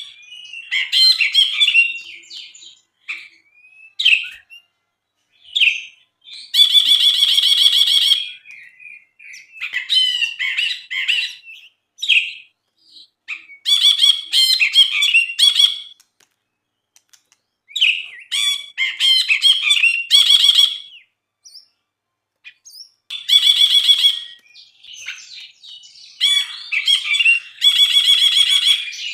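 Brinji, a bulbul, singing loud phrases of chattering whistles in quick succession, broken by short pauses, with several harsh, buzzy rasping bursts among them.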